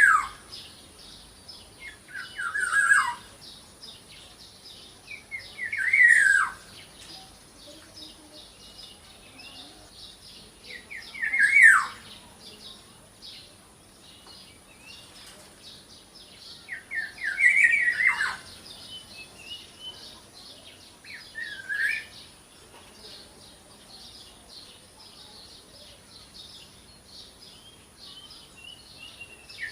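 Black-naped oriole (kepodang) giving harsh calls that drop in pitch, about six in all at uneven gaps of a few seconds. Behind them runs a faint continuous high twittering of other small birds and a steady high tone.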